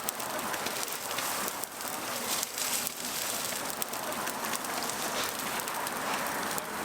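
Oil sizzling and crackling on a griddle as sorghum bukumi pancakes fry, a steady hiss with faint pops.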